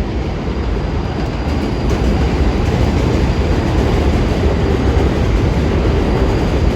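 New York City subway train running through the station: a steady, loud rumble of wheels on rail that grows a little louder about two seconds in.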